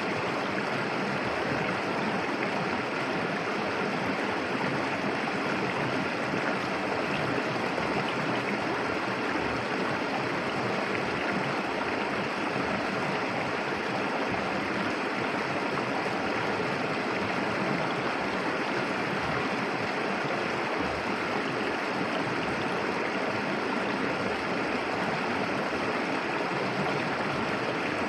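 Clear, shallow river flowing steadily, its water rushing and gurgling.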